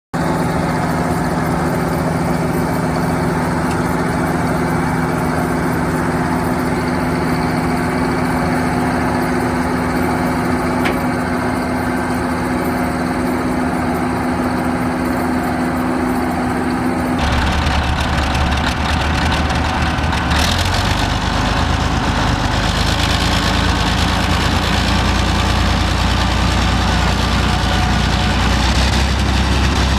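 Hopto H1900 hydraulic excavator's diesel engine running steadily. About seventeen seconds in, the sound changes abruptly to a deeper, heavier low rumble.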